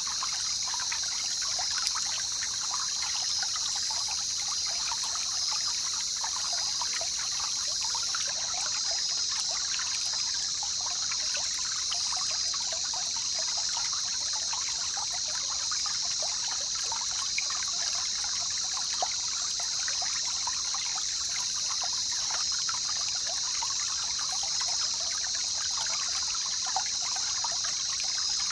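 Jungle river running, a dense steady patter of trickling water, with a steady high-pitched drone above it. A faint upper hiss drops away about eight seconds in.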